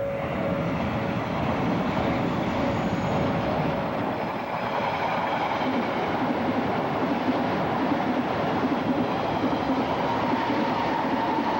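Odakyu electric train running past at speed: a steady rumble of wheels on rail, with faint whining tones above it.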